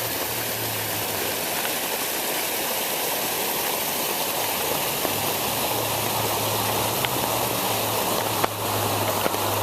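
Storm water runoff from a parking lot rushing and splashing steadily, with a faint low hum underneath.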